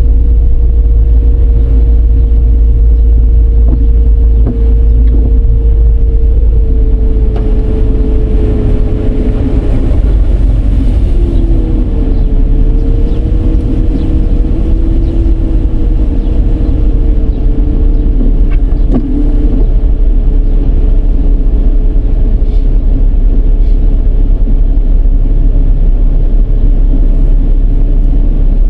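Dodge Charger driving in rain: a loud, steady low rumble of road and tyre noise, with a faint whine that wavers in pitch, dips about ten seconds in and splits into two tones for several seconds.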